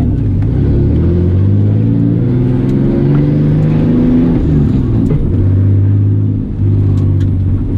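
Twin-turbo 2JZ inline-six in a Nissan 240SX S13 pulling away and revving, heard from inside the cabin; the engine pitch climbs and shifts several times, with a brief dip about six and a half seconds in.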